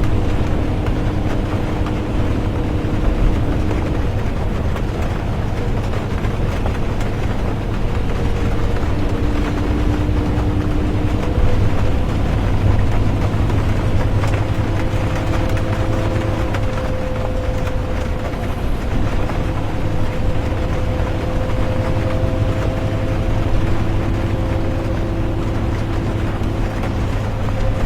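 The steady drone of a moving bus heard from inside: a deep engine and road rumble under a hiss, with rain mixed in. A fainter engine or drivetrain hum shifts to a new pitch every few seconds as the speed changes.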